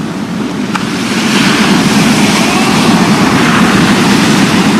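Loud rush of breaking surf and churning water, swelling about a second in and staying loud.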